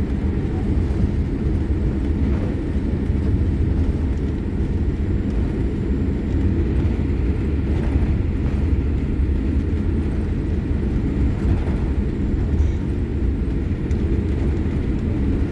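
Steady low rumble inside the cabin of a Boeing 787-8 Dreamliner taxiing on the ground: engines at taxi power and the aircraft rolling along the runway.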